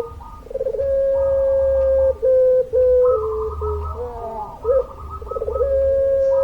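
Puter pelung, a long-voiced Barbary dove breed, cooing twice: each call opens with a brief stutter, holds one long note, then breaks into shorter, lower notes. A low hum runs underneath.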